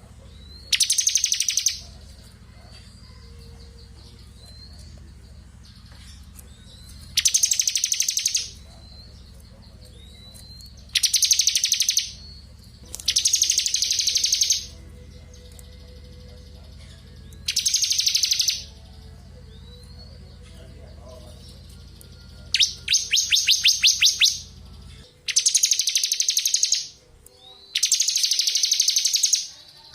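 A bar-winged prinia (ciblek kristal) sings in repeated loud bursts of very rapid, high trilling, each about a second long and a few seconds apart, with soft short rising chirps in between. A low steady hum underneath stops about 25 seconds in.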